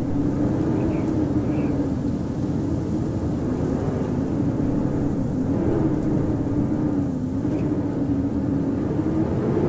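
Howling blizzard wind: a steady rush of wind with a low howling tone that slowly wavers up and down in pitch.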